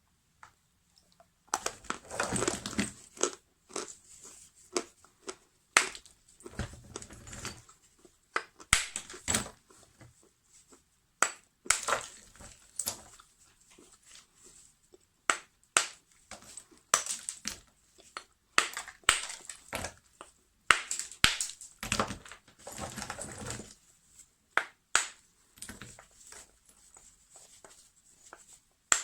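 Lumps of natural edible chalk crunching and snapping: irregular sharp crunches coming in clusters, with short pauses between.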